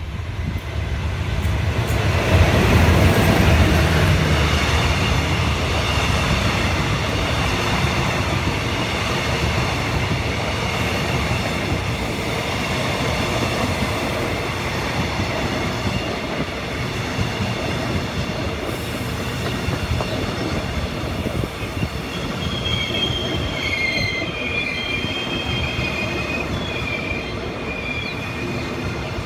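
A Thai express passenger train passing close by: the SRT Hitachi-class diesel locomotive goes by with a low engine rumble, loudest about three seconds in. A long string of stainless-steel coaches then rolls past with steady wheel-on-rail noise. From about 22 seconds in, the wheels squeal with high whining tones.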